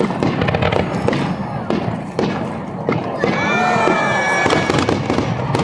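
Aerial fireworks going off in quick succession, a run of sharp bangs and crackles, with spectators' voices rising over them in the second half.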